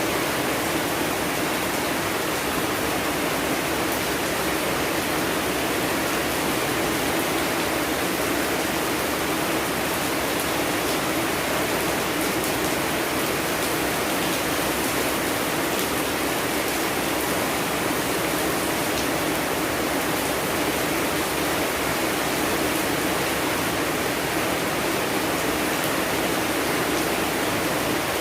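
Steady heavy rain, a dense, even hiss that does not change.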